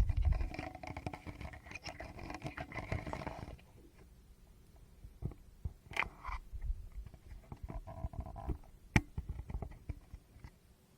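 Fingers rubbing and tapping close on a Tascam recorder's microphone. There are a few seconds of continuous rubbing with many small clicks, then scattered light taps, with two sharper taps about 6 and 9 seconds in.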